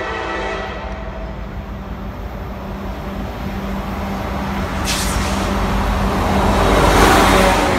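Diesel locomotives approaching on the main line, their engines rumbling and growing steadily louder, after the horn's last note fades about half a second in. There is a brief hiss about five seconds in.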